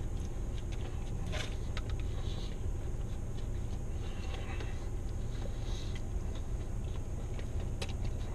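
A person chewing a big mouthful of burger, with faint wet mouth clicks scattered through, over a steady low hum.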